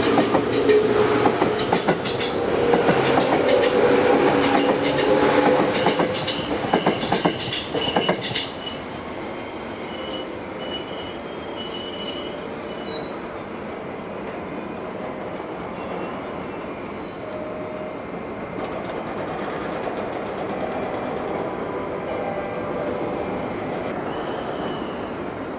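Electric train running over rail joints with a rapid clatter of wheel clicks and a steady low whine. After about eight seconds it settles into a quieter rolling noise with thin, high-pitched wheel squeals.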